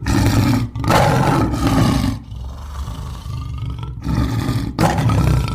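Lion roaring: a run of deep, rough roars with short breaks, loud in the first two seconds, quieter in the middle, then loud again near the end.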